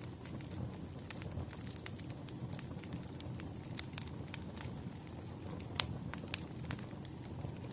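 Wood fire burning with a steady low rumble and irregular crackles and pops from the burning logs, the sharpest pop about six seconds in.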